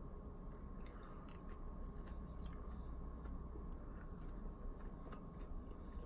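A person chewing a mouthful of orange chicken close to the microphone, with scattered small wet mouth clicks, over a steady low hum.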